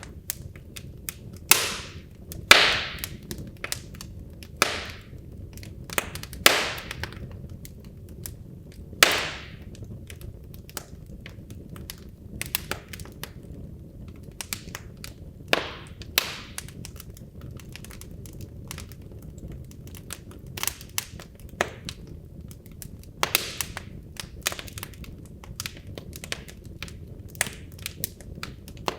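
Wood fire in a fireplace crackling: irregular sharp pops and snaps from the burning logs, a few of them louder with a brief hiss, over a steady low rumble of the flames.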